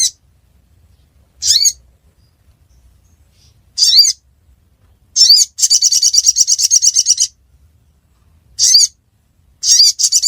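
Sunbird calling: short, high-pitched notes every second or two, and about halfway through a fast trill of roughly nine notes a second lasting under two seconds.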